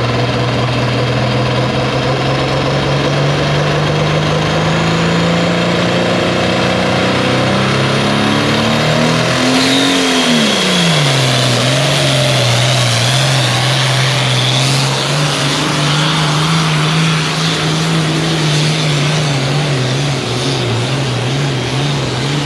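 Pulling tractor's turbocharged engine running flat out under load. Its pitch climbs slowly, sags and recovers about ten seconds in, then wavers unevenly, with a high whine over it through the middle.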